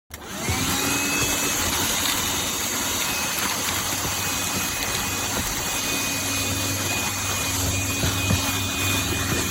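Black+Decker Dustbuster cordless handheld vacuum switched on: its motor spins up with a rising whine in the first second, then runs steadily with a whine over the suction noise.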